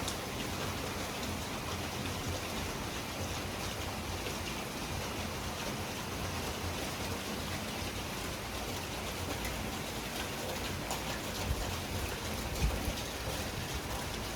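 Heavy rain falling steadily in a night thunderstorm, a dense even hiss of drops on surfaces. Near the end come a few brief louder thumps.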